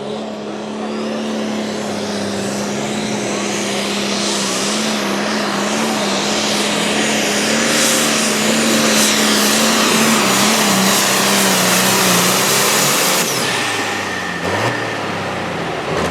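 Competition pulling vehicle's engine running hard at wide-open throttle under heavy load as it drags the sled down the track, growing louder. About thirteen seconds in it drops off and the pitch falls as the throttle is let off.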